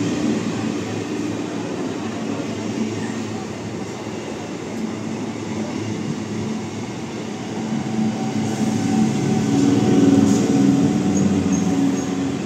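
Conventional electric multiple unit (EMU) local train running past at close range, its coaches rumbling steadily over the rails. The sound swells about eight seconds in.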